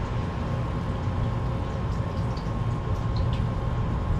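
Steady low background rumble with a faint constant hum, and a few faint light clicks around the middle.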